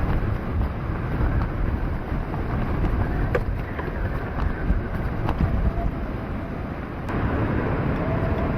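Hurricane-force wind buffeting the camera microphone as a steady, loud low rumble, with a few faint knocks in it.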